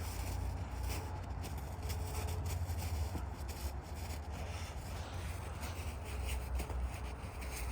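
Snow being rubbed and packed by hand into a snowball, a soft uneven scraping, over a low rumble of wind on the microphone.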